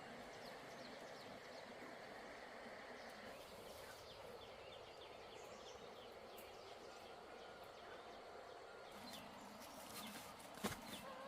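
Faint outdoor ambience: a steady hiss with faint short bird chirps, and a couple of sharp clicks or knocks near the end.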